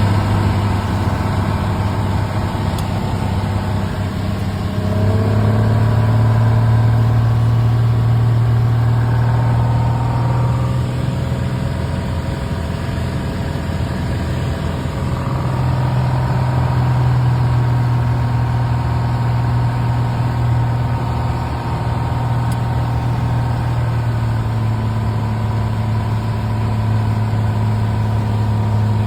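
Small plane's engine and propeller droning steadily. The engine note rises about five seconds in, eases back around ten seconds and rises again around fifteen seconds.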